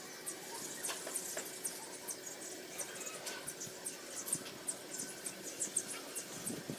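Irregular faint high-pitched clicks and squeaks, a few each second, over a faint steady hum.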